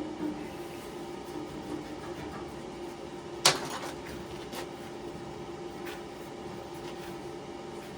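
One sharp knock about three and a half seconds in, followed by a few lighter clicks, against a steady low hum.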